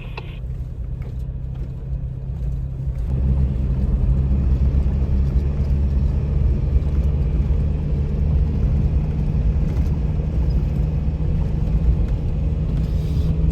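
Vehicle engine running with a steady low drone, growing louder about three seconds in as it pulls away and keeps going.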